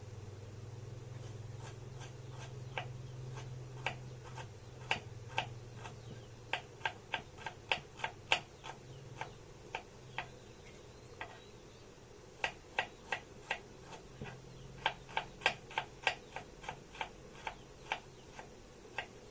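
Knife slicing shallots on a cutting board: sharp taps coming in quick runs of two or three a second, broken by short pauses, with a low steady hum underneath in the first half.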